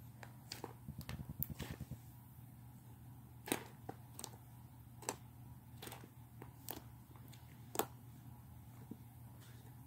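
Slime being squished and worked by hand: a quick run of soft squelches in the first couple of seconds, then scattered sharp pops and clicks, the loudest twice.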